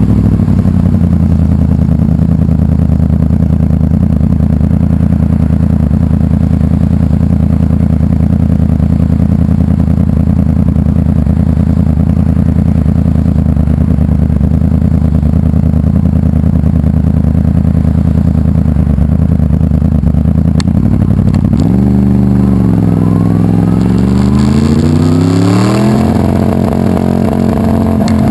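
2011 Yamaha R1 crossplane inline-four with a fully built YEC superbike-spec engine, running at a steady high engine speed under way. About three quarters of the way through, the revs drop, then rise and fall again several times.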